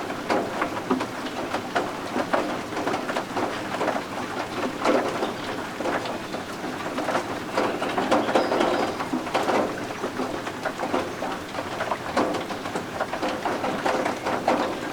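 Rain falling steadily in a dense patter, with soft peeping of newly hatched guinea fowl keets.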